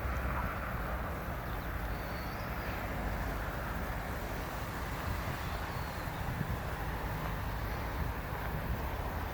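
Steady outdoor background noise, with two faint high chirps, about two seconds in and about six seconds in.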